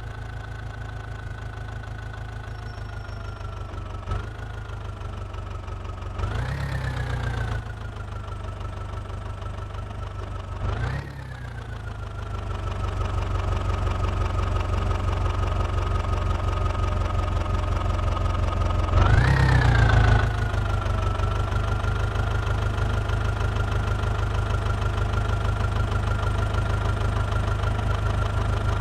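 Diesel engine of a JCB 3DX backhoe loader running steadily, revving up briefly three times, about six, eleven and nineteen seconds in. It grows louder from about twelve seconds on.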